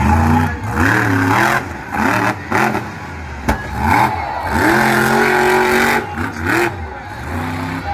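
Monster truck engine revving hard, its pitch rising and falling with repeated bursts of throttle, held high for a second or so near the middle, with a sharp knock about three and a half seconds in.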